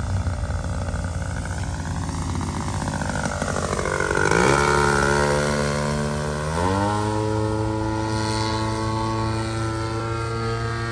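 Engine and propeller of a Pilot RC Pitts Challenger model biplane in flight. The pitch swells and sweeps as the plane passes, then steps up sharply twice, about four and six and a half seconds in, as the throttle is opened, and runs steady at the higher pitch.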